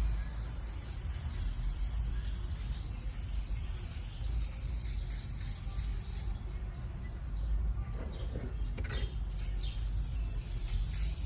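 Paint spraying with a steady high hiss that stops about six seconds in and starts again about three seconds later, over a steady low rumble.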